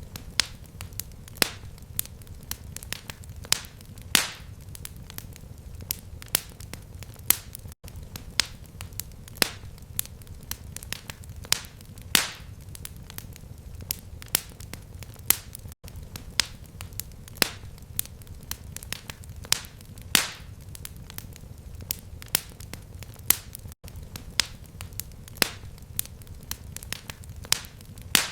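Fireplace fire crackling: irregular sharp pops and snaps over a low, steady rumble of flame. About every eight seconds there is a brief dropout, and the same pattern of pops repeats, as in a looped recording.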